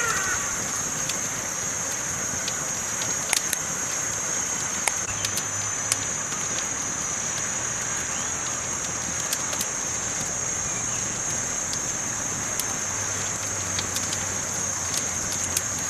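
Campfire crackling: irregular sharp pops and snaps over a steady high hiss.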